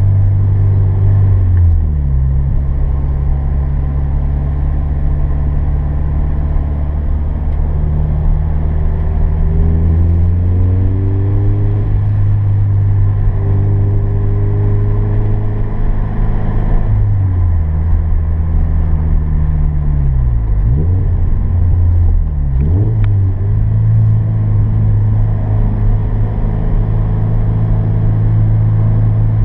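Turbocharged Scion FR-S flat-four boxer engine heard from inside the cabin under hard driving. The engine note drops early on, climbs steadily, dips sharply several times in the middle, then holds steady near the end.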